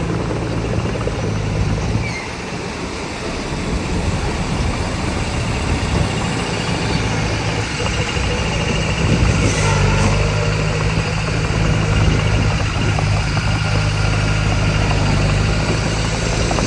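Heavy diesel engine of earthmoving machinery running steadily, easing off briefly about two seconds in and working harder again from about ten seconds in.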